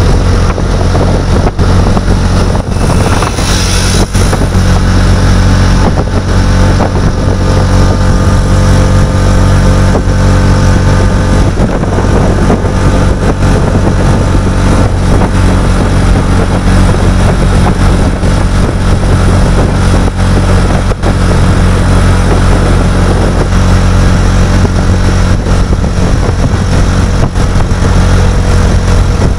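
A motor vehicle's engine running steadily at a constant speed, a loud continuous low drone, as heard while riding along; a brief hiss rises about three seconds in.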